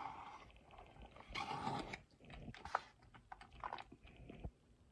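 Honey-coated crushed peanuts being poured and scraped from a container into a dish of chicken: soft crunchy rustles in short spells with scattered small clicks and taps.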